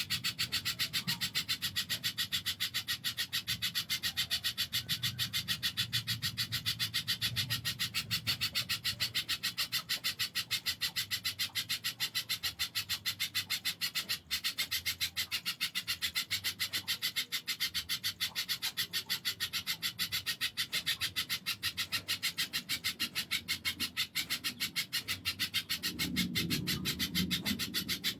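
Pijantung (spiderhunter) calling in a rapid, even run of sharp high chips that keeps going without a pause, with a low rumble near the end.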